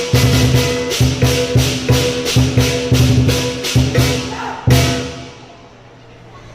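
Lion dance percussion, drum and crashing cymbals, beating a fast, even rhythm of about four strikes a second, then one last loud strike near the end that rings out and fades away.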